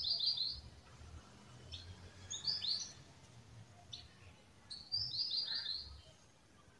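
A songbird calling three times, each call a quick run of four or five high chirps stepping down in pitch, about two and a half seconds apart. A faint low rumble of background noise runs underneath.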